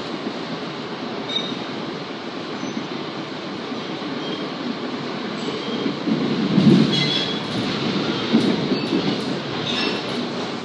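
Commuter train running along the rails, heard from inside the passenger coach: a steady rumble of wheels and car body that grows louder about six seconds in, with a few brief high squeaks.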